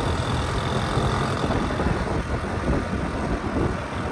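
Honda Cub C70's small single-cylinder four-stroke engine running steadily as the bike is ridden along the road, with a continuous low rumble and a steady rush of noise over it.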